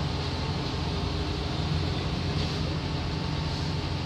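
Steady, unchanging low mechanical drone with a light hiss above it, with no distinct events.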